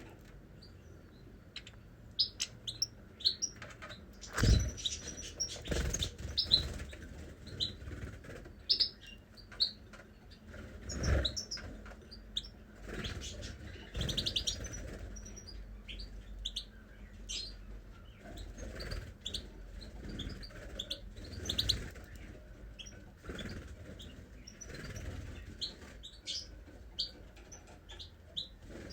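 Small cage birds chirping, many short high chirps scattered throughout, with a few brief flutters or thumps, the loudest about four seconds in and again about eleven seconds in.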